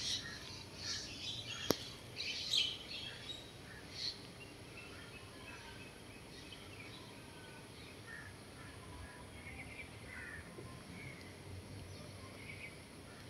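Small birds chirping in short, scattered calls, busiest in the first few seconds and fainter after, over a low steady outdoor background. A single sharp click comes about two seconds in.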